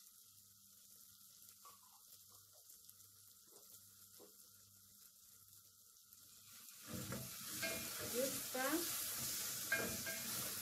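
Tomato and onion sauce sizzling in an aluminium pot while it is stirred and scraped with a wooden spoon; the sizzle starts about two-thirds of the way in, and before that there is only a faint hum.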